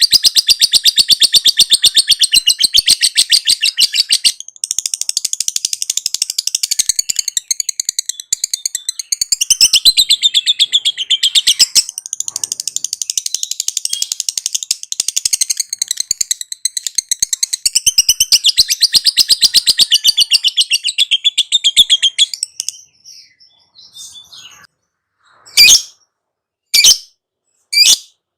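Lovebird giving its long 'ngekek' song: a loud, rapid, unbroken chattering trill that runs for about twenty seconds with two brief breaks, then stops. Near the end come three short, sharp single chirps.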